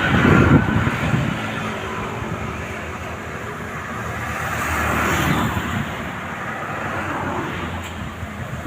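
Strong wind blowing in gusts, buffeting the microphone with a low rumble near the start and swelling to a louder rush about five seconds in.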